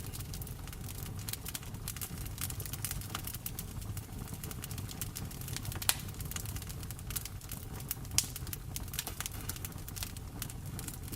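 Wood fire crackling in a fireplace: a dense run of small snaps with two louder pops about six and eight seconds in, over a steady low rumble, mixed with rain.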